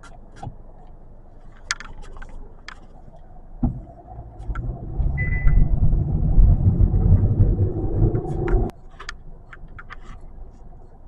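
Kia K4's engine heard from inside the cabin, pulling hard under acceleration, its note building and rising in pitch for about five seconds, then dropping away suddenly near the end. Light clicks sound now and then, and a brief beep comes early in the run.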